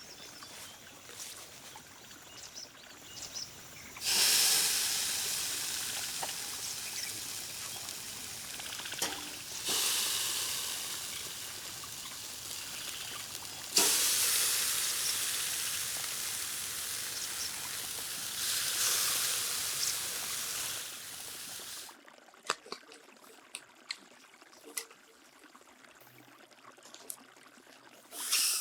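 Food sizzling in a hot buttered pan, in two loud spells that start suddenly about four and fourteen seconds in and slowly die down, then stop about twenty-two seconds in.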